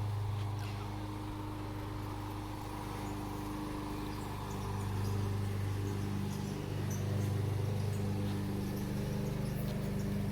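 Lawnmower engine running steadily, its drone swelling and easing a little.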